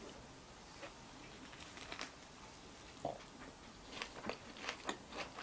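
Faint chewing of a mouthful of sandwich on seeded bread: soft, wet mouth clicks, scattered at first and coming more often near the end.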